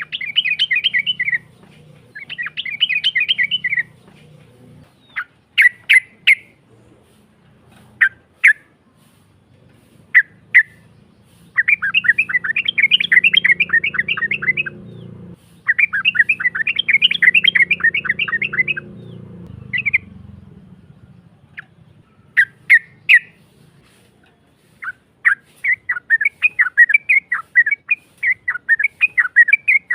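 Yellow-vented bulbul (trucukan) singing a rough-voiced song: rapid chattering trills a few seconds long, broken up by short single calls.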